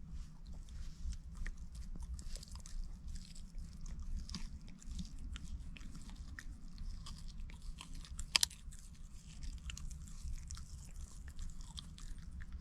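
Close-up chewing and crunching of food, many small irregular clicks and crackles over a steady low hum, with one sharper click about eight seconds in.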